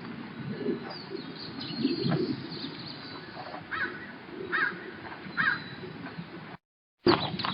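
Birds calling outdoors, including three short rising-and-falling calls evenly spaced in the middle, over a low background murmur. Near the end the audio drops out to silence for about half a second, then comes back with a few sharp clicks.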